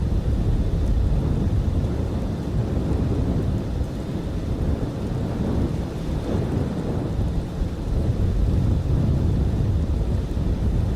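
Strong blizzard wind buffeting the microphone: a steady, heavy low rumble with no let-up.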